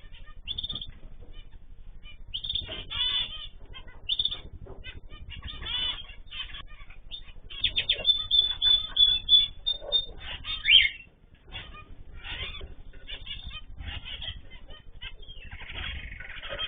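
A flock of small cage birds calling and chirping over one another in many short, repeated calls, busiest and loudest in the middle.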